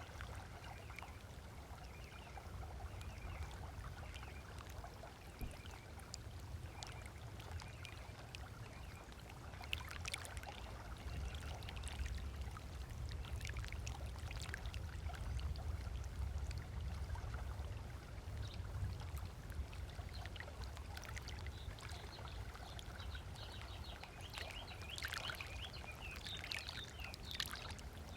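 Small waves lapping and splashing gently on a sandy lakeshore, with a steady low rumble underneath that swells in the middle. A few short bird chirps come in near the end.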